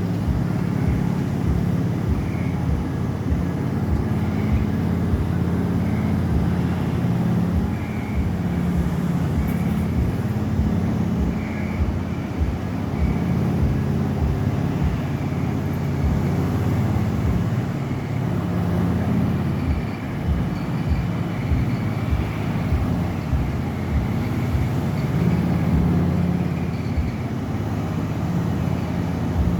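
Coffee dryer running: a steady machine hum with many irregular low thumps underneath.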